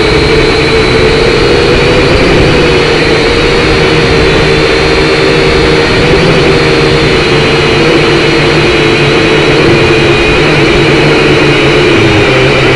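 Syma X5C quadcopter's small motors and propellers whining steadily at a high pitch that wavers slightly as the drone flies, over a low rumble typical of strong wind on the microphone.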